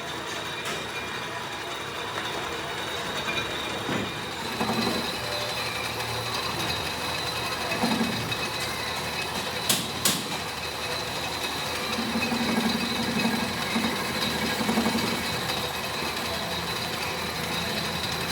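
Workshop machinery running steadily, with a thin high whine through most of it and two sharp metallic clanks close together about ten seconds in.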